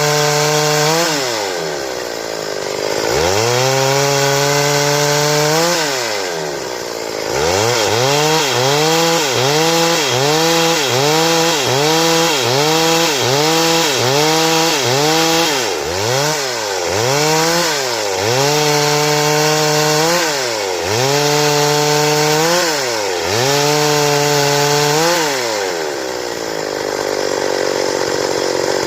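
Stihl chainsaw engine revving up and falling back again and again, with a run of quick revs about once a second in the middle. It drops to idle near the end.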